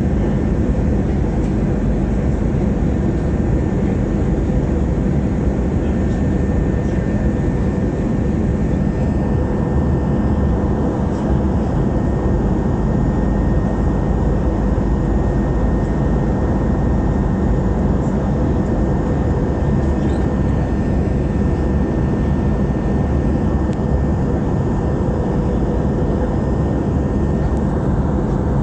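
Airliner noise heard inside the cabin: a steady, loud rumble of engines and airflow with a faint constant whine above it.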